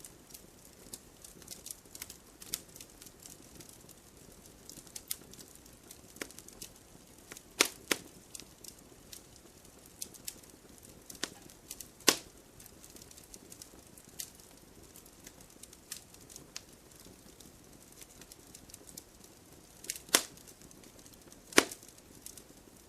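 Wood fire crackling in a fireplace: a steady stream of small ticks and snaps from the burning logs, with a few louder, sharper pops scattered through, two close together around eight seconds in, one around twelve seconds and two more near the end.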